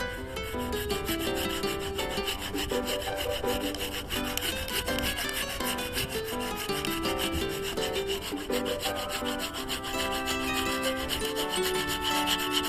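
Cheap hand saw cutting through a wooden log, rasping steadily with rapid strokes, over background music.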